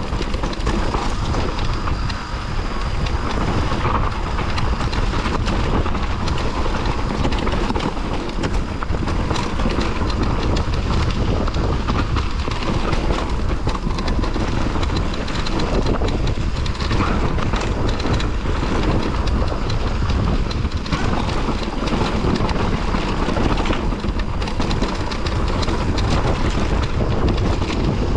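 Mountain bike riding down a badly rutted dirt trail: steady tyre rumble and rattling of the bike over the rough ground, with wind buffeting the microphone.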